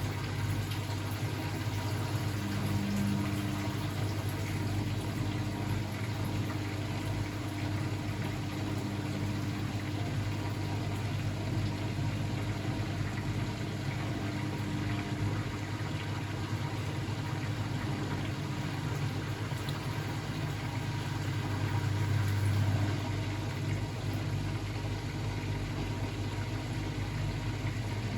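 Blomberg WAF 7442 SL washing machine running mid-cycle: a steady low hum, with a higher motor tone that comes and goes in stretches of a few seconds.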